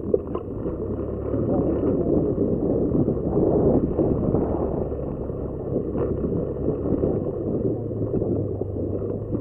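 Wind rushing over the microphone on a moving motorcycle, with the engine's low steady drone underneath.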